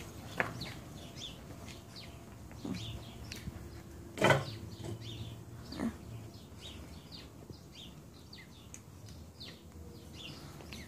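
Small birds chirping in quick short notes again and again, with a few short knocks, the loudest about four seconds in.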